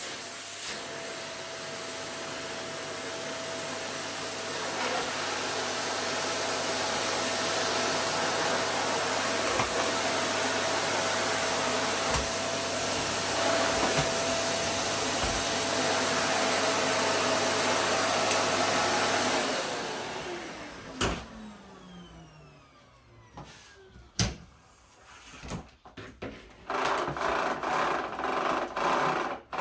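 Philips FC9351 bagless vacuum cleaner running steadily with a constant motor whine, then switched off about two-thirds of the way through, its whine falling in pitch as the motor spins down. A few clicks and knocks follow.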